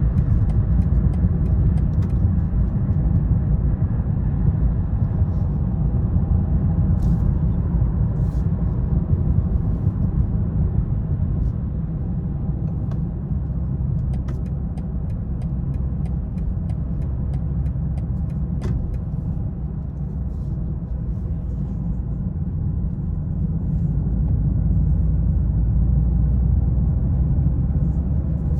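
2020 BMW 330i's 2.0-litre turbocharged four-cylinder and road noise while driving: a steady low rumble that eases off a little in the middle and builds again near the end.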